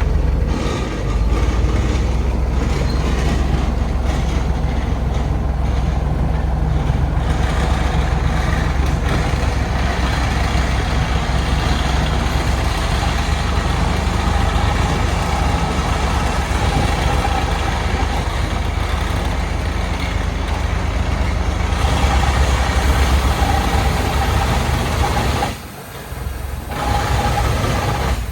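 Old heavy truck's engine running steadily with a deep rumble, dropping off briefly near the end.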